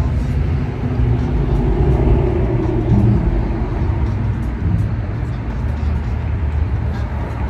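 Steady low rumble of a car engine running, with a few faint light clicks over it.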